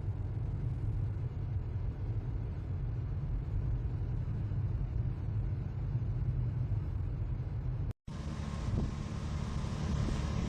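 Steady low rumble of a motor vehicle driving on the road. It cuts out briefly about eight seconds in, then a similar rumble carries on with more hiss.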